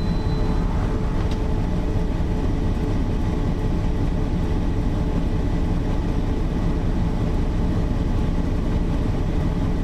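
Mercedes-Benz O408 bus's diesel engine running with a steady low rumble, with one short click about a second in.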